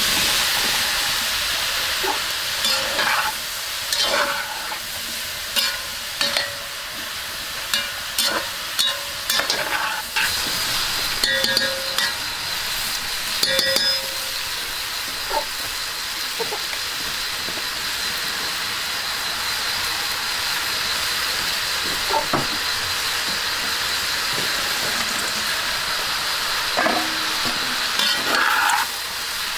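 Food sizzling steadily in a hot pan, with frequent knocks and scrapes of a utensil stirring it, busiest in the first half and again near the end.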